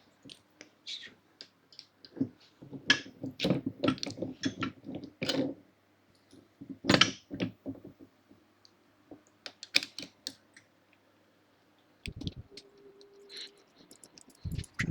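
Irregular clicks, clinks and knocks of metal parts and hand tools being handled while bolting together a hydraulic scissor motorcycle lift, with a dense run of clicks early on and one louder knock about halfway through.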